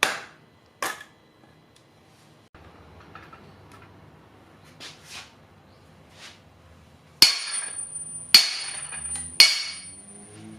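Hammer blows on a homemade kindling-cracker log splitter. Two sharp strikes come at the start and a few lighter knocks about midway. Three heavy blows about a second apart come near the end, each followed by a high metallic ring.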